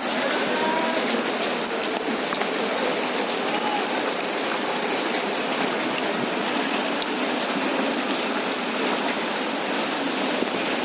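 Steady rain falling: an even, dense hiss with fine drop ticks.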